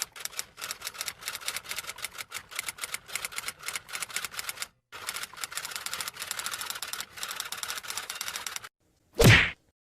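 Typewriter typing sound effect: fast, irregular keystroke clacks with a short pause about halfway. Near the end comes a brief, loud swoop that falls quickly from high to low pitch.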